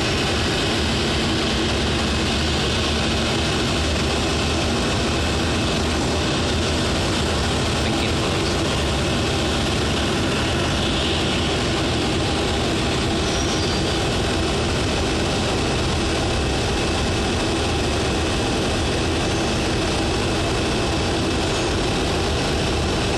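Boeing 737-800's CFM56 turbofan engines running steadily at idle, a constant rumble with steady tones over it.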